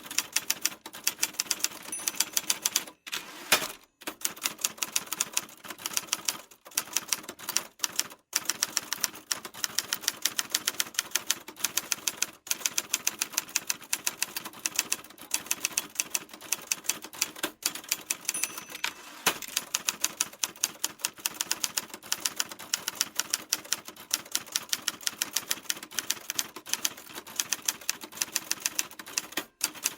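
Typewriter keys struck in quick, uneven succession, several sharp clacks a second, with a few short pauses between runs of typing.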